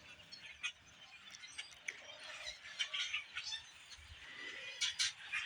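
A large flock of birds calling, with many faint, scattered chirps overlapping.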